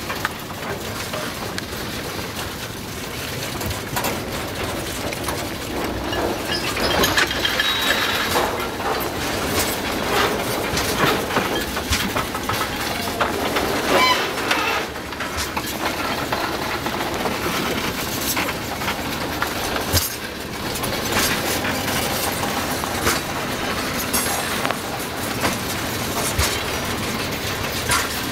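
Freight train cars rolling past on the rails: steady wheel-on-rail rumble with repeated clicks from rail joints. A brief high wheel squeal comes about seven seconds in and again around fourteen seconds.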